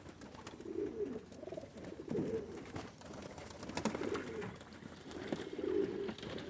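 Several white pigeons cooing, low warbling coos overlapping about once a second, with a few light sharp taps among them.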